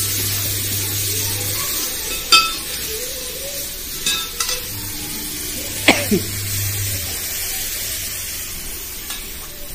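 Frying in hot oil in an aluminium pot, sizzling steadily, as sliced onions are tipped in from a steel bowl onto the fried garlic, wadiyan and spices. Three sharp metal clinks of the bowl and ladle against the pot, about two, four and six seconds in, the last one ringing briefly.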